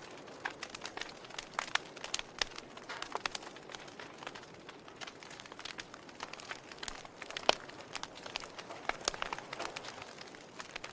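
Wood fire crackling, with many irregular sharp pops and snaps over a low hiss; the loudest snap is a little past the middle.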